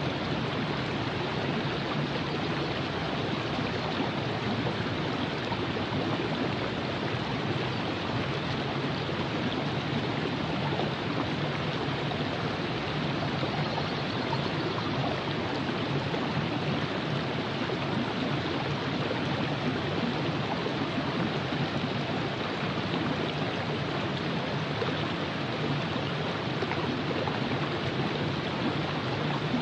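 River water rushing and gurgling over rocks in a steady, unbroken flow.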